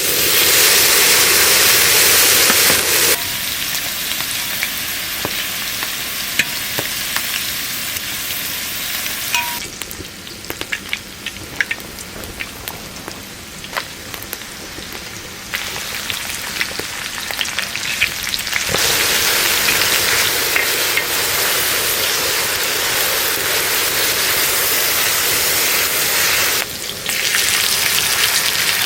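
Food sizzling as it fries in a pan, a steady hiss with many small pops and crackles; the sizzle grows louder and softer in sudden jumps several times.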